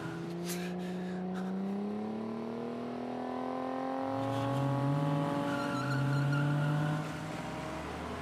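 Car engines accelerating, the main engine note climbing steadily in pitch. A second, lower engine note joins about four seconds in, rising and then holding, twice.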